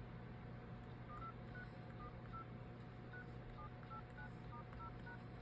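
Phone dial-pad keypad tones: about a dozen short, faint beeps as keys are tapped one after another, over a low steady hum.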